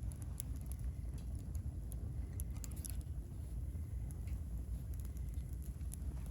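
Firewood burning in a round camping fire pit, crackling with scattered sharp pops over a steady low rumble.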